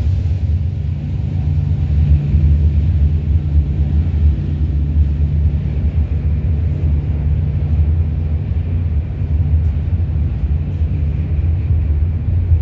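Freight train passing: a steady, loud low rumble with a constant low hum running through it.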